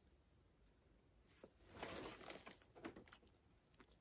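Faint biting and chewing of a chewy gaeseong juak, a fried glutinous-rice cake: mostly quiet, with a soft tearing, rustling noise about two seconds in and a few small clicks after it.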